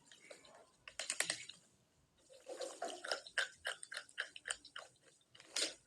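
Close-up crunching and chewing of baked clay pot pieces: a crisp bite about a second in, then a long run of fast crunchy chews, and one loud crunch near the end.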